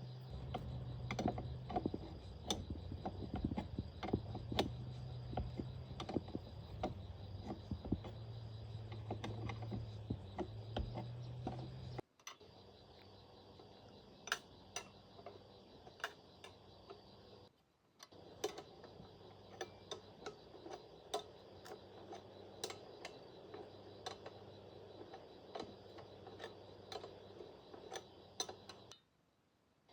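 Irregular light clicks and knocks from hand tools working on machine parts, several a second. For the first twelve seconds they sit over a steady low hum, and after that they are quieter.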